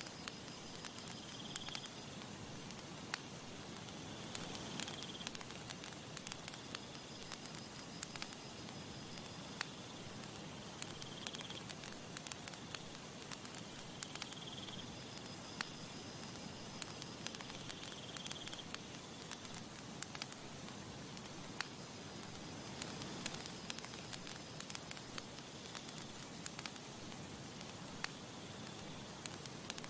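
Wood campfire crackling, with frequent sharp pops and snaps over a soft steady hiss of breeze. Faint high chirps recur every few seconds in the background.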